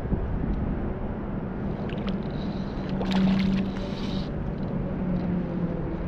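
A small boat's motor humming steadily under a low rumble, with a brief brighter rush about three seconds in.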